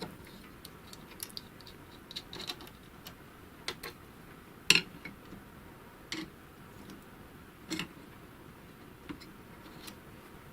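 Scattered, irregular small metallic clicks and taps of a screwdriver and small steel parts on a Chaika-2 sewing machine's zigzag mechanism, as its fixing screw is undone and a washer is taken out. The loudest click comes almost five seconds in.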